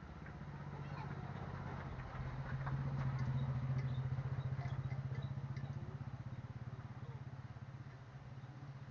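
Washing machine motor running with a steady low hum that swells over the first few seconds and then slowly eases off.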